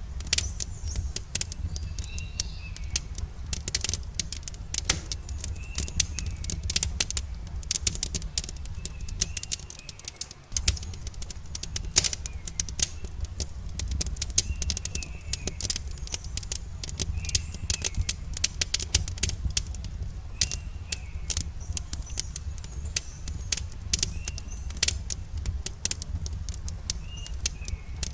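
Wood campfire crackling and popping with dense, irregular sharp snaps over a steady low rumble. A small bird chirps in short phrases every few seconds in the background.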